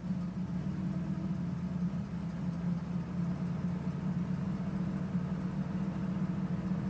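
1992 Cadillac Eldorado's V8 engine idling unstably after a blip of the throttle, a steady low hum with a slightly wavering level: the rough, unsteady idle the owner is troubleshooting.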